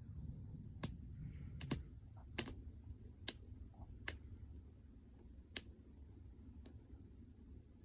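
Wood fire crackling: about eight sharp, irregular pops and snaps over a low, steady rush.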